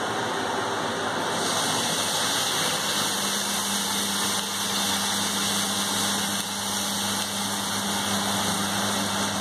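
Chicken and bacon frying in a pan on a gas hob: a steady hiss, with a low steady hum that comes in after about a second and a half.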